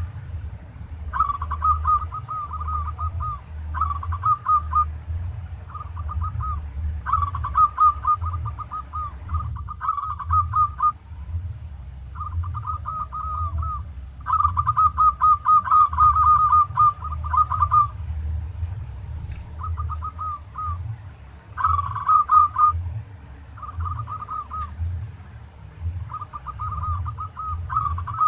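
Zebra dove (local perkutut) cooing: repeated bursts of rapid, trilling coos, each lasting one to a few seconds with short pauses between them, over a low steady hum.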